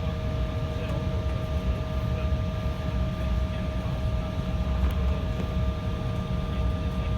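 Embraer jet airliner's engines running at a steady low power, a constant low rumble with a steady whine at a couple of fixed pitches over it.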